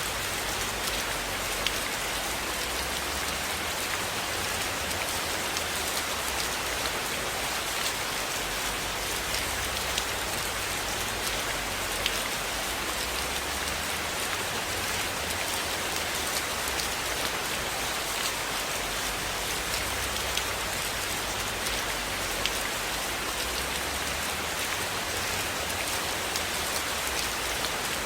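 Steady rainfall hissing without a break, with scattered sharper ticks of individual drops or crackles.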